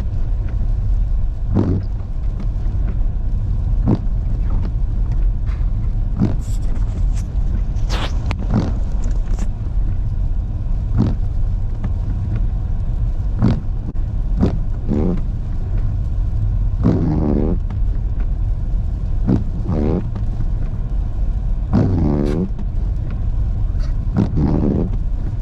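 Car cabin noise while driving on a slick, snowy road: a steady low rumble of engine and tyres. A short stroke repeats about every two seconds, and a faint voice comes in near the end.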